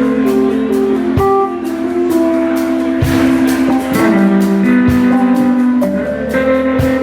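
Blues-rock band playing an instrumental passage, with guitar to the fore over a steady drum beat.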